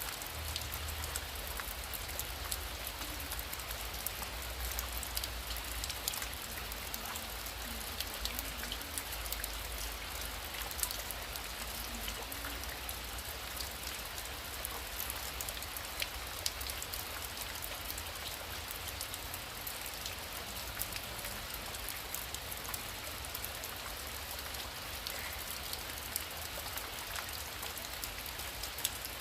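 Heavy rain pouring steadily, with many separate drops ticking sharply on a surface close by and a low rumble beneath.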